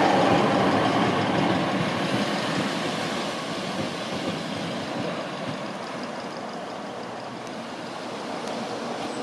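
A train running past, its rumble fading as it moves away and leaving a steady, quieter hiss.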